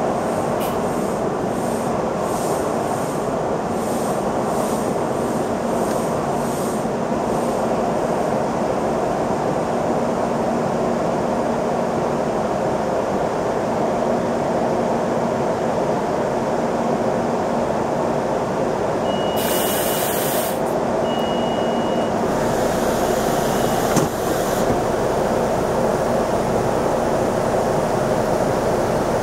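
SEPTA Silverliner V electric railcar at the platform, its on-board equipment running in a steady whir and hum. About two-thirds through come a short burst of hiss and two short high beeps, then a softer hiss and a click.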